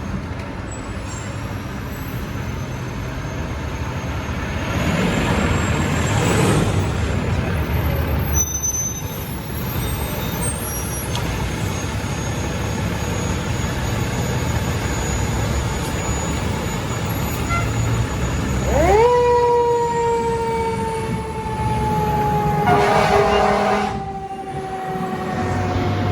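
Fire engine running with its siren: about 19 seconds in the siren winds up sharply, then slowly falls in pitch, over a steady engine rumble. Shorter loud blasts come around six seconds in and again near the end.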